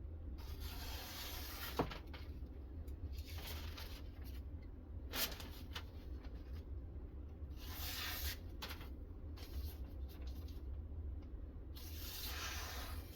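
A freshly sharpened knife being test-cut, making about four separate hissing cutting strokes, with a couple of sharp clicks between them.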